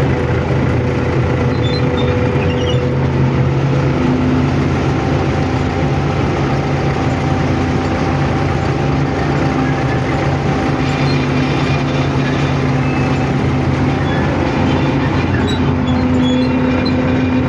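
Diesel locomotive engine running steadily under load as the train climbs a grade, a constant drone with a few held tones, with the train's running noise on the rails.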